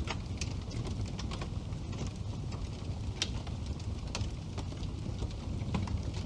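Wood fire burning in a fireplace: a steady low rumble of the flames with irregular sharp crackles and pops, the loudest pop about halfway through.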